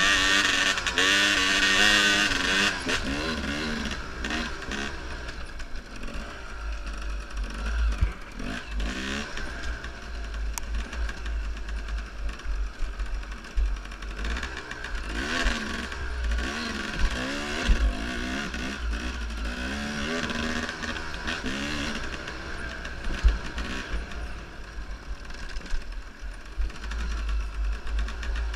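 Enduro motorcycle engine revving up and down over and over as the bike is ridden, heard from an onboard action camera, with low wind rumble and frequent knocks and thumps.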